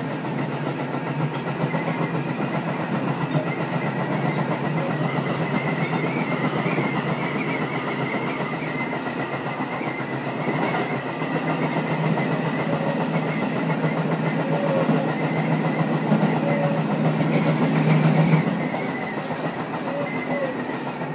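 Running sound inside the lead car of a Tobu 10030 series electric commuter train at speed: a steady rumble of wheels on rail with a thin whistling wind noise over it. It grows louder toward about 18 seconds in, then drops back.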